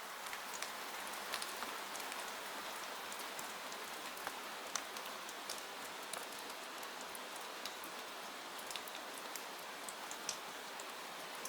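Steady rain falling, an even hiss scattered with frequent small sharp ticks and pops.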